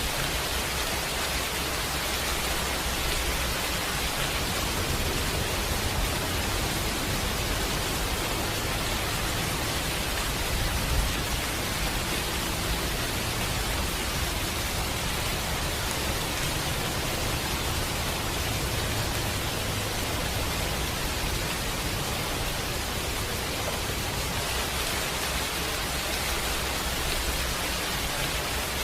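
Steady rain falling, heard as an even hiss with a low rumble underneath, mixed with a fireplace; one brief louder snap about eleven seconds in.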